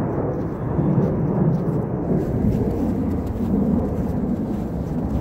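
Strong wind buffeting the microphone, a loud, uneven low rumble with no clear pitch.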